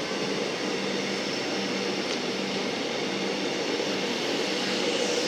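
Metro Melbourne electric suburban train running through the station without stopping: a steady running noise with a constant low hum.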